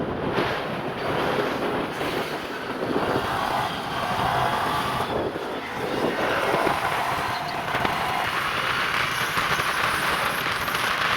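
Aircraft cabin noise: the steady rush of engines and airflow inside a passenger plane.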